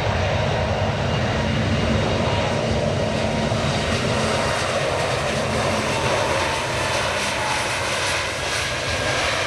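Airliner engines running loud and steady: a deep rumble and rushing noise with a faint thin whine.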